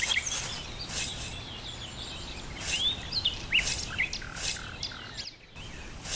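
Small birds chirping, short scattered calls over steady outdoor background noise, with several brief bursts of high hiss.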